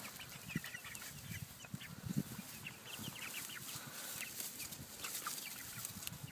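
Chickens clucking: many short, scattered calls from several birds, with some rustling and scuffing of movement.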